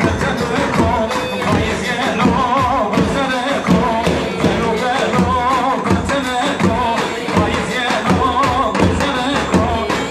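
Music from a Turkish band: a steady, repeating drum beat under a wavering, ornamented melody line.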